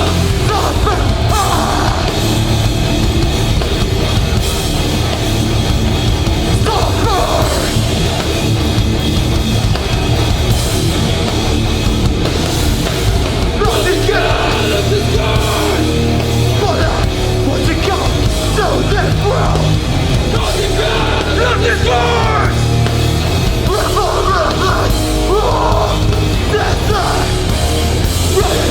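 Hardcore band playing live at full volume: distorted heavy guitars and a pounding low end, one continuous song with no break.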